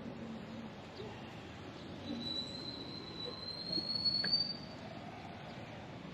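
Street background noise with a long, thin, high squeal that rises slightly in pitch over about two and a half seconds midway through.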